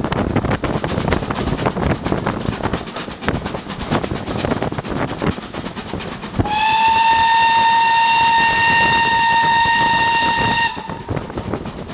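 Steam locomotive whistle sounding one long blast of about four seconds, a single steady tone. It sounds over the rumble and clatter of the moving train.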